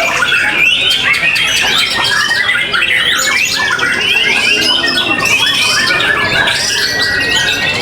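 Many caged songbirds singing at once: a dense, overlapping chorus of whistles, chirps and trills.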